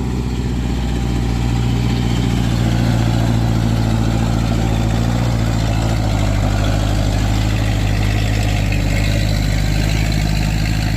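Water tanker truck's engine running steadily at an even, unchanging pitch.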